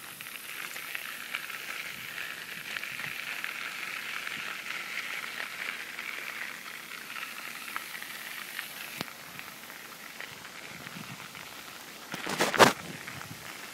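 Crackling hiss of bicycle tyres rolling along a path, fading somewhat in the second half. A single loud bump about twelve and a half seconds in.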